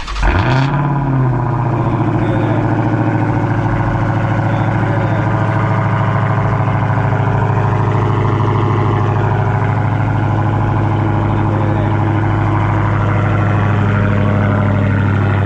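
Dodge SRT Hellcat's supercharged 6.2-litre V8 starting: a short crank and a quick flare of revs in the first second, then a loud, steady idle that eases slightly lower in pitch as it settles.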